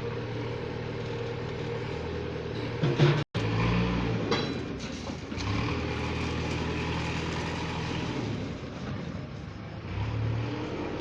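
Diesel engine of a JCB tractor running steadily, with a couple of slight rises in engine speed. The sound cuts out completely for a moment a little over three seconds in.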